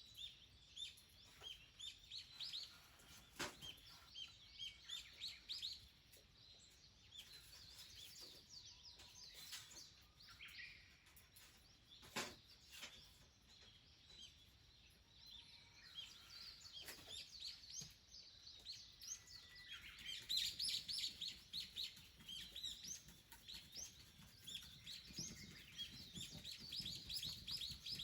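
Small wild birds chirping, a busy run of short high chirps and calls that grows denser in the second half, with a couple of sharp knocks.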